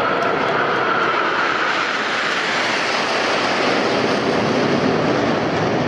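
Aermacchi MB-339 PAN jet display aircraft flying past with the loud, steady rush of their turbojet engines. Their whine falls in pitch over the first couple of seconds.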